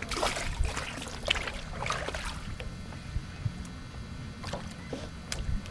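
Water sloshing against a small craft's hull, with scattered light knocks and rustles of handling.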